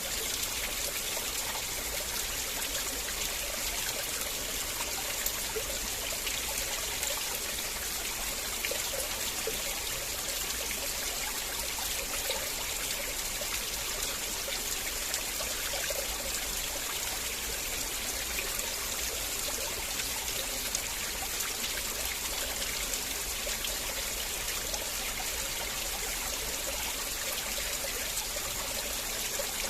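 River water flowing and trickling steadily, an even rush with fine splashing and no change in level.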